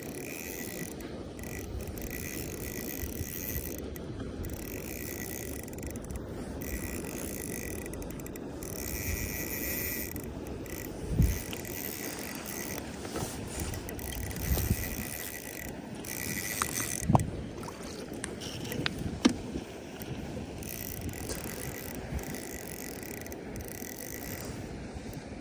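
Fishing reel being cranked, a steady mechanical ratcheting, with a few sharp knocks in the middle of the stretch.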